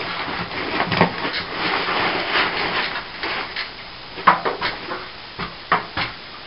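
A plastering hand tool scraping over a plastered wall for about three seconds. Then come a few scattered light taps and clicks.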